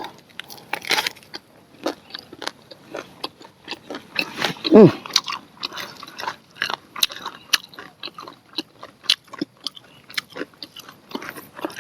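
Biting and chewing grilled corn on the cob close to the microphone: a run of sharp crunchy clicks of kernels being bitten off and chewed. About five seconds in comes a brief voiced hum, the loudest sound.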